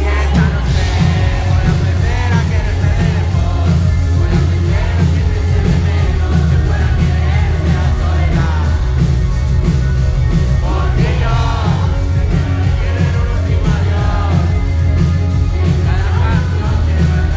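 Live pop-rock band music played loud through a concert PA, with heavy bass and drums under a singing voice. The full band comes in right at the start.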